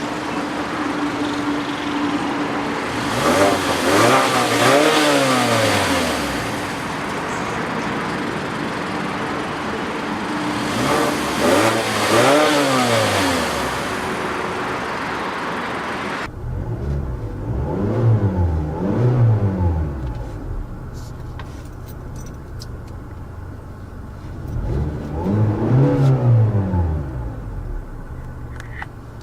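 Mazda 6 four-cylinder engine being free-revved while parked: the engine idles and is blipped about five times, each rev rising and falling back to idle, two near the start, two in quick succession after a sudden change in the background hiss about 16 seconds in, and one more near the end.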